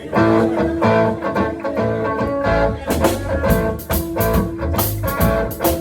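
Live blues band playing a song's instrumental intro: guitar and bass from the start, with a steady beat of sharp percussive hits joining about three seconds in.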